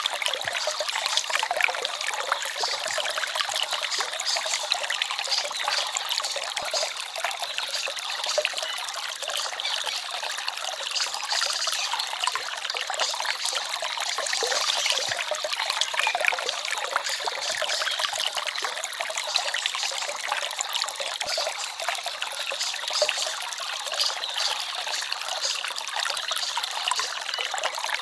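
Small forest stream trickling and babbling steadily over stones, a hissy, even water sound with little low rumble.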